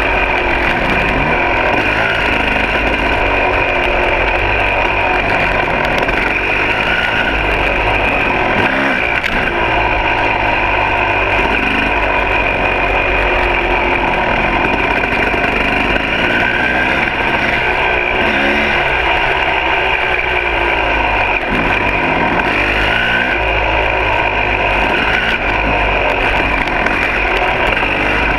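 Two-stroke dirt bike engine running under a rider's throttle, the revs rising and falling every few seconds as the bike rides a trail.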